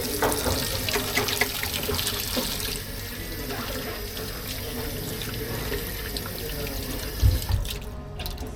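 Water running steadily from a tap into a sink, shutting off shortly before the end, with a dull thump just before it stops.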